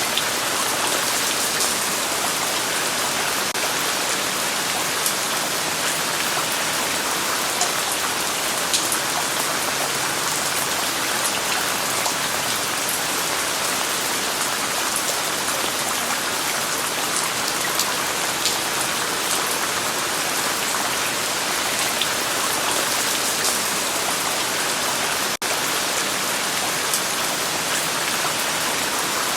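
Steady rain falling, with individual drops ticking on a surface through it. It breaks off for an instant about 25 seconds in.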